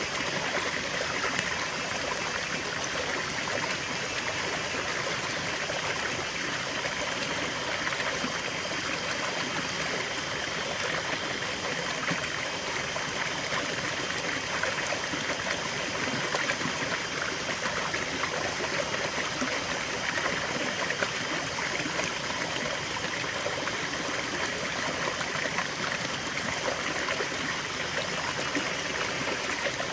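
Small stream flowing and trickling steadily over stones, a continuous babble of running water.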